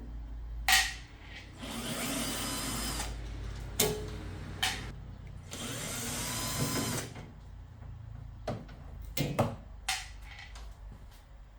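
A small handheld power tool, in the manner of a drill or electric screwdriver, runs in two bursts of about a second and a half each. Sharp clicks and knocks come between and after the bursts.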